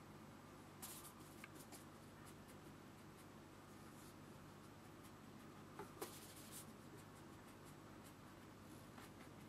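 Faint brush strokes on watercolour paper: a few brief brushing sounds, the loudest about six seconds in, over a steady low hum.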